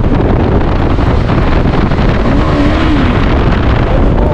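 Loud wind rush over the microphone on a moving motorcycle, with the KTM 390 Adventure's single-cylinder engine running underneath.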